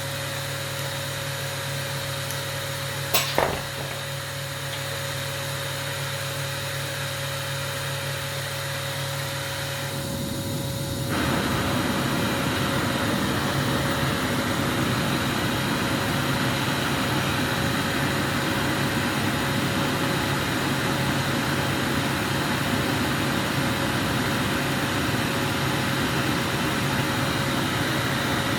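Steady hum of workshop machinery with a short knock about three seconds in; about ten seconds in a louder, even rushing hiss starts and holds, typical of a glassblower's gas burner flame turned up to work the glass.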